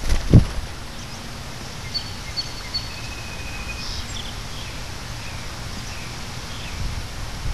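Outdoor backyard ambience: scattered short bird chirps and a few brief whistled notes over a steady low rumble of wind on the microphone. A dull thump about half a second in is the loudest sound.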